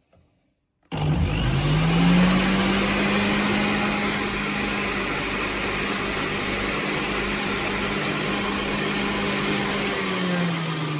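Electric centrifugal juice extractor motor switched on about a second in, quickly spinning up to a steady high-speed hum with a whirring rush, then switched off near the end and spinning down with falling pitch.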